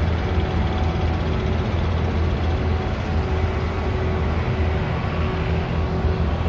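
Steady low engine rumble with road traffic noise, holding an even level.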